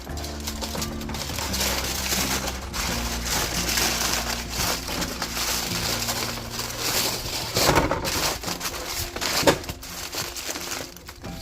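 Crinkling and crushing of a baking-sheet liner as it is crumpled up by hand after baking. The crackle runs in quick irregular bursts, with a few sharper snaps around eight and nine and a half seconds in.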